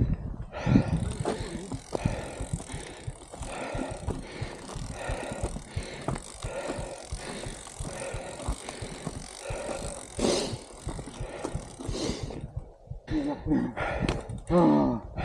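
Bicycle being ridden, with a steady clatter of small rattles and knocks from the bike and wind buffeting the microphone. The riding noise stops about twelve seconds in.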